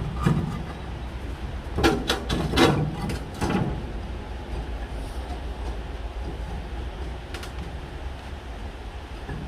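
Several clunks and scrapes, bunched together a couple of seconds in, as a heavy stone is handled against the steel body of a homemade wood stove, over a steady low rumble.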